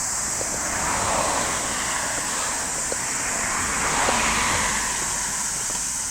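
Steady high-pitched drone of cicadas, with two swells of passing road traffic, one about a second in and one about four seconds in.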